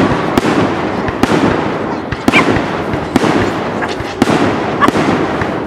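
Aerial firework shells bursting in quick succession: about eight sharp bangs, irregularly spaced roughly half a second to a second apart, with a continuous crackle between them.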